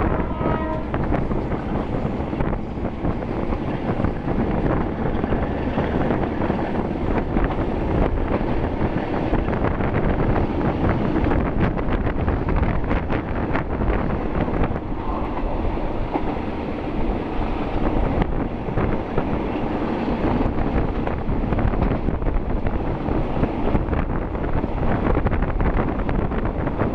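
Passenger carriage of a diesel-hauled train running along the rails, a steady rumble with frequent clattering knocks from the wheels and car, heard from inside the carriage by the window.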